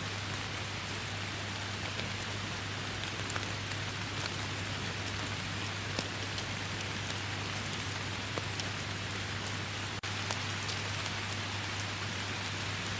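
Steady rain falling in a forest, an even hiss with scattered sharper drop ticks. The sound drops out for an instant about ten seconds in.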